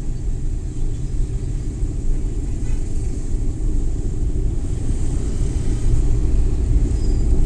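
Suzuki Every Wagon kei van on the move: a steady low engine and road rumble, growing a little louder past the middle.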